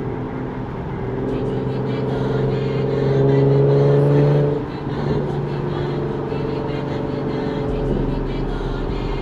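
Infiniti Q50's exhaust, fitted with an aftermarket Ark exhaust and resonated test pipes, under acceleration. The pitch rises for a few seconds, falls off sharply about four and a half seconds in, then holds a steady cruising note.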